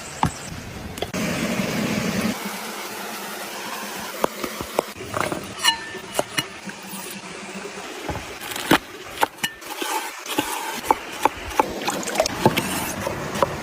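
Food-preparation handling sounds: irregular sharp clicks and knocks, one with a short ring about six seconds in, coming more often in the second half, over a steady hiss.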